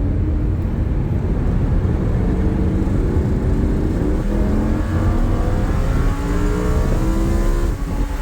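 Lamborghini Huracan LP-610's naturally aspirated V10 accelerating at full throttle, its engine note climbing steadily and falling back at the upshifts, about four seconds in and near the end.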